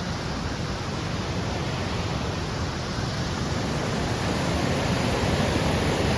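Waterfall rushing steadily nearby, a loud unbroken roar of falling water that grows a little louder near the end.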